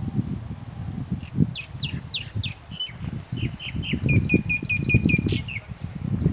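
A bird calling: a few quick downward-sweeping notes about a second and a half in, then a fast run of about seven short, even notes near the end, over a low, uneven rumble.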